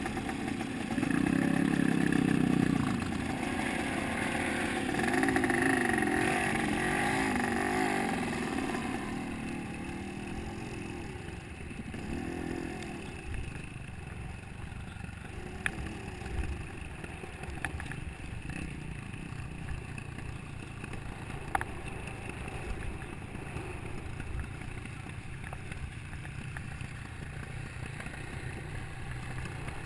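Motocross bike engine revving, loudest in the first several seconds, then dropping to a fainter, wavering engine note as the bike moves away. A few sharp clicks come around the middle.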